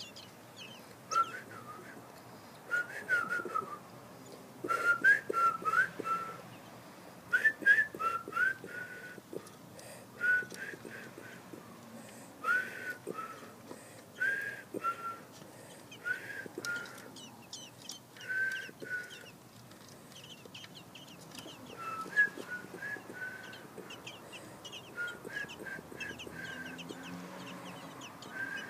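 A bird calling in short, clipped chirps that come in quick clusters of two to five, with brief pauses between clusters, and fainter, higher chirps in between.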